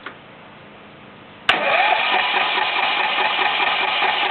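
Tractor engine starting on the key: a sharp click about a second and a half in, then the engine turning over and running loudly with a rapid, even beat.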